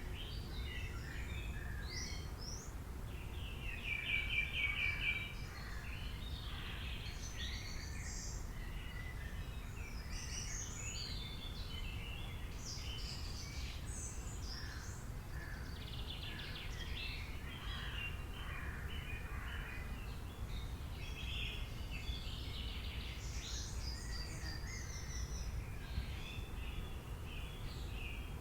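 Several wild birds chirping and singing together over a steady low background rumble, with a loud, fast trill about four seconds in.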